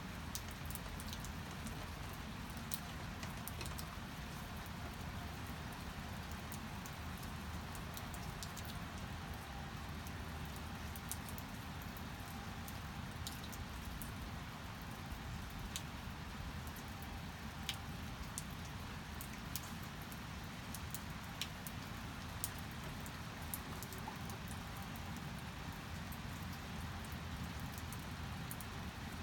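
Steady rain falling, with scattered sharp drops and drips striking a hard surface throughout.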